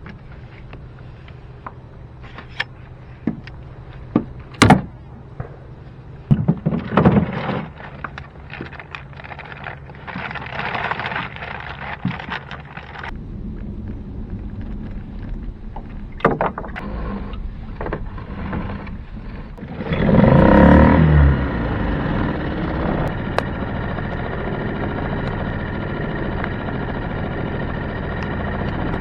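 Knocks and clatter of gear in a small boat, then about 20 s in a Yamaha 2 hp outboard motor starts with a loud burst and settles into running steadily.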